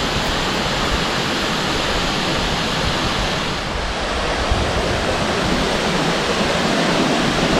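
Steady rushing of water, an even noise with no break.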